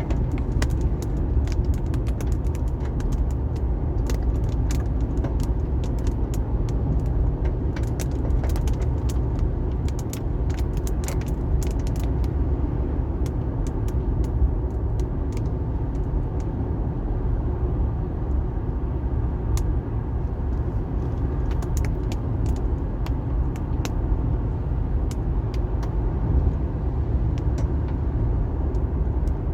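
Car driving on a rain-wet highway: a steady low rumble of engine and tyre road noise, with scattered sharp ticks of raindrops striking the car, thickest in the first dozen seconds and again a little past the middle.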